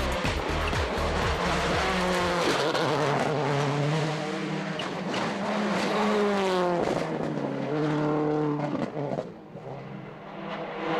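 A 2007 World Rally Car's engine being driven hard on a special stage. Its pitch drops as it brakes down the gears about two and seven seconds in, then climbs again under acceleration. It goes briefly quieter near the end.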